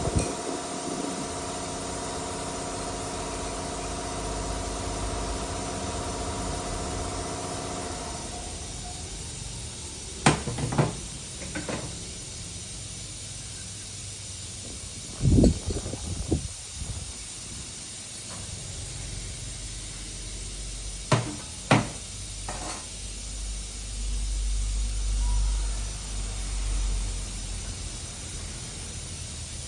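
Car engine idling steadily, then shutting off abruptly about eight seconds in. After that, a few scattered knocks and clunks sound over a steady hiss.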